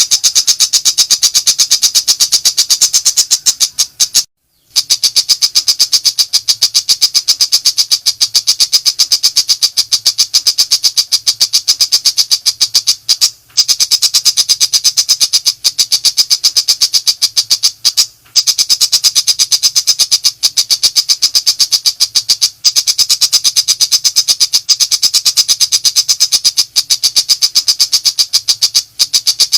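Pentet macan shrike calling in rapid-fire 'nembak' style: a loud, high-pitched stream of quick, evenly spaced chattering notes, broken by a few brief pauses.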